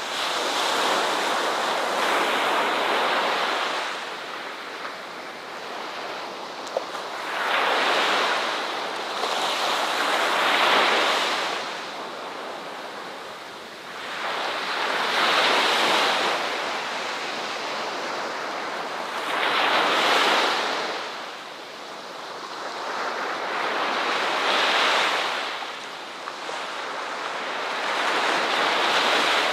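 Ocean waves breaking on a shore: the surf swells and ebbs in repeated surges, a wave every four to five seconds.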